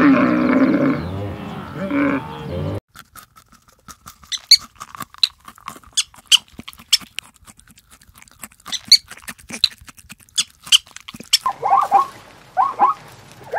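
Animal sounds in three parts. First a loud animal call with a wavering pitch for nearly three seconds, which stops abruptly. Then sparse sharp clicks and snaps. Then, near the end, a run of quick chirps repeating in short groups.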